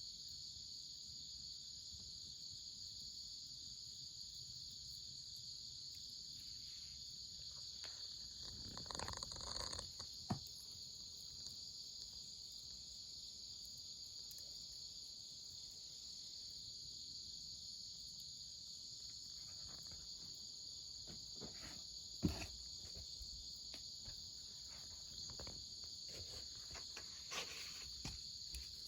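A steady, high-pitched insect chorus, with a few scattered knocks and crackles on top. The loudest is a sharp knock about two thirds of the way in.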